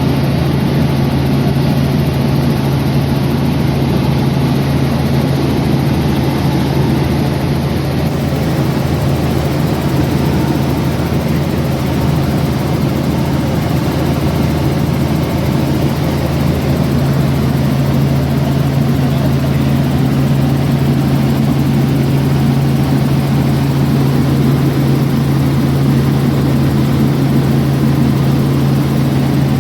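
Aircraft engine running steadily at a constant speed, a loud unchanging drone with a strong low tone.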